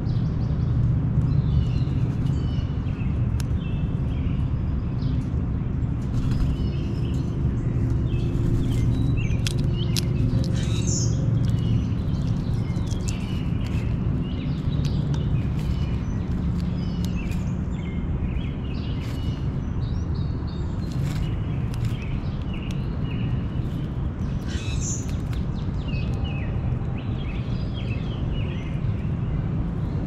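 Birds chirping in many short, scattered calls over a steady low background rumble.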